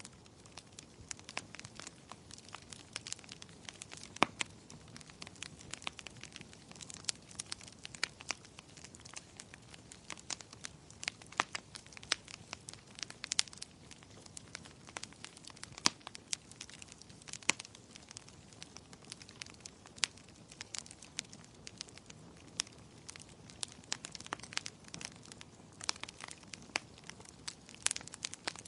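Wood fire in a fireplace crackling, with frequent irregular sharp pops and snaps over a soft hiss.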